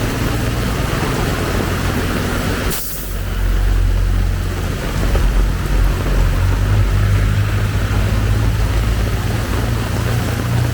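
Heavy rain falling steadily, with a motor vehicle's engine running close by as a low, steady hum. The sound dips briefly about three seconds in.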